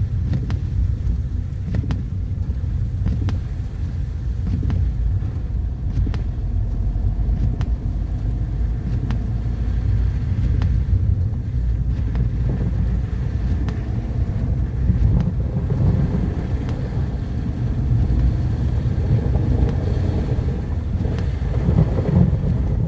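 Car driving: a steady low rumble of engine and tyre noise on the road, with faint scattered ticks.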